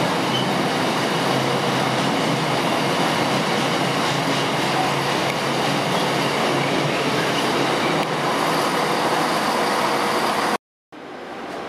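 Freight train of container flat wagons running past at a platform: a steady, loud rumble and clatter of wagon wheels on the rails. It cuts off suddenly near the end, followed by a quieter steady rumble.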